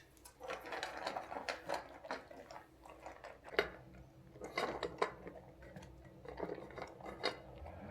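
Scattered light clinks and taps of dishware, with a few sharper knocks in the middle.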